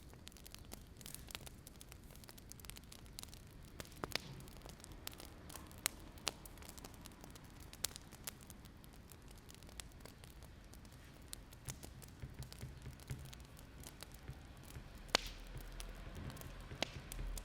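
Wood fire crackling, with scattered irregular sharp pops and snaps over a low steady background.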